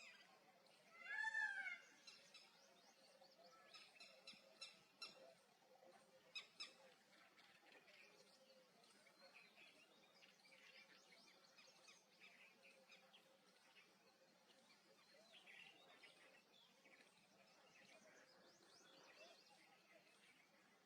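Faint bird calls: a louder, rising-and-falling call about a second in, a quick series of sharp chirps around four to seven seconds, then many soft, scattered chirps.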